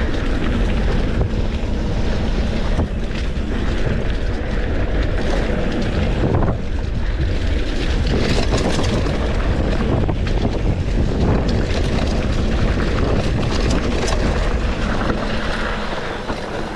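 Wind rushing over the microphone of a mountain bike rider in motion, a loud, steady buffeting noise with the rumble of the bike rolling over rough ground beneath it.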